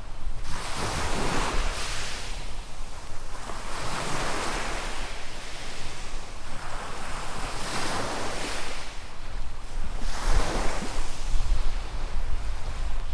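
Small waves breaking and washing up a sandy beach, four swells about three seconds apart. Wind rumbles on the microphone underneath, heavier near the end.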